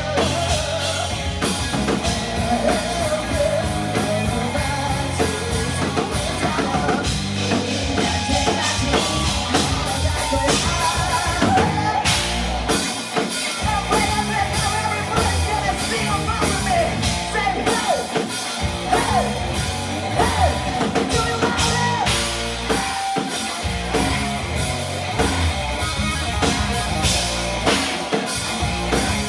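Live rock band playing: drum kit, electric guitar and bass under a lead vocal, as heard from the audience.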